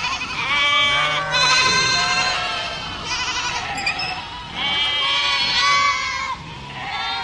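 Goats bleating, about five wavering calls in a row, several of them overlapping at different pitches.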